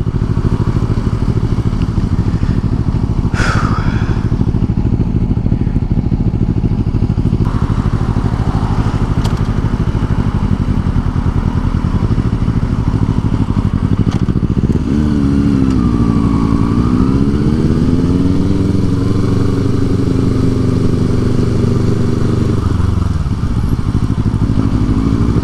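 Motorcycle engine running steadily while riding. About halfway through, its note dips and then rises again, holding for several seconds before settling back.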